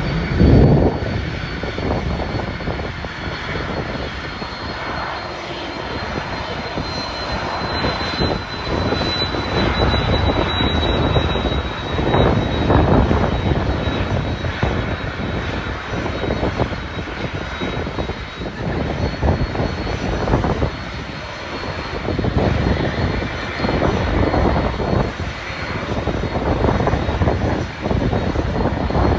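Jet airliner engines running at an airport, with a thin high whine that slowly falls in pitch, under heavy wind buffeting on the microphone.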